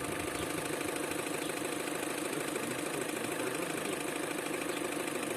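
Opel Astra engine idling with a regular knock, which the mechanics trace to the intake manifold and diagnose as the intake manifold flap knocking.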